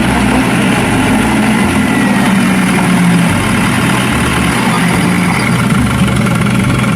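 A heavy vehicle's engine running steadily, with a low hum that shifts a little in pitch.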